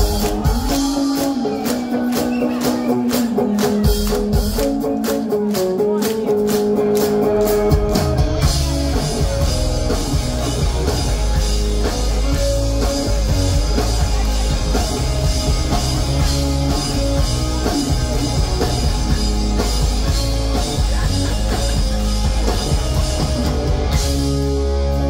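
Pop-punk band playing live with no vocals: electric guitars and drum kit, the bass and full band coming in heavily about eight seconds in.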